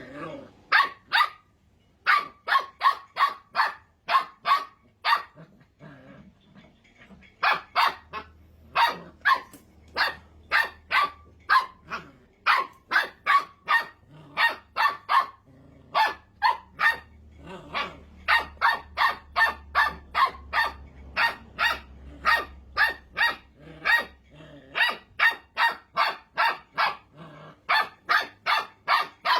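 Puppy barking high and rapidly, about three barks a second, in long runs with brief pauses.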